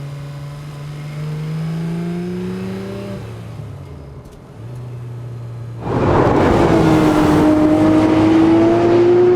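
Porsche 911 R's naturally aspirated 4.0-litre flat-six pulling in gear with a slowly rising note, easing off around three seconds in, then going to full throttle about six seconds in: much louder and harsher, the pitch climbing steadily as the car accelerates.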